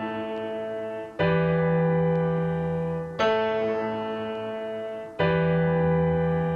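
Background music of slow piano chords, a new chord struck about every two seconds and left to ring and fade.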